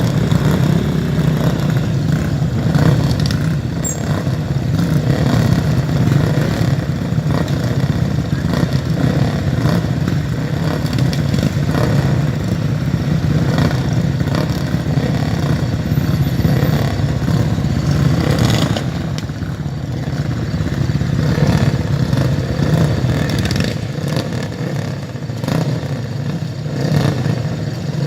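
Dirt-track racing motorcycles running hard, their engines revving and easing with an overlapping clatter; the loudness dips slightly a couple of times near the end.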